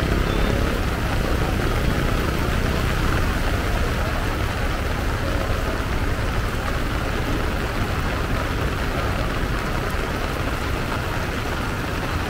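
Heavy typhoon rain falling steadily on the road and on the umbrella overhead: a dense, even hiss with a low rumble underneath.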